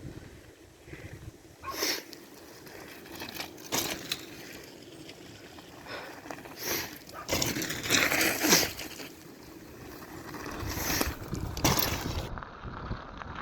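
Mountain bike riding over a snowy trail: a run of knocks and rattles from bumps over a noisy background, the loudest cluster about eight seconds in.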